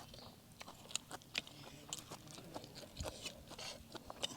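Close-up chewing of crunchy crispy fried pork, a quick string of sharp crunches.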